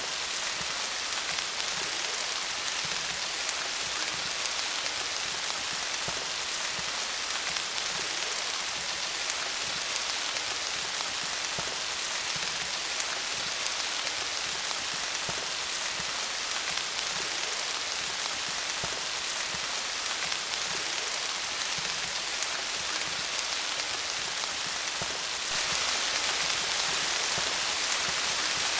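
Steady rain falling on leaves: a dense, even patter of drops that grows a little heavier for the last few seconds.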